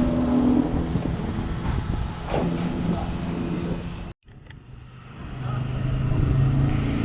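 Motor vehicle engine running, with an abrupt cut to silence about four seconds in; after it an engine hum comes back and grows louder.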